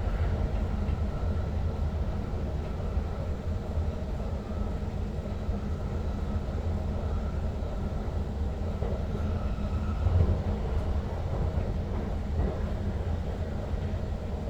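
Steady running noise of an NS Sprinter Lighttrain (SLT) electric multiple unit heard inside the driver's cab: a continuous low rumble with a faint tone above it.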